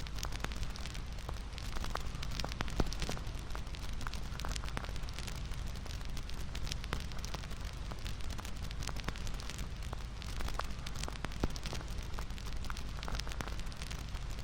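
Wood fire crackling, with a steady hiss and frequent sharp pops and snaps.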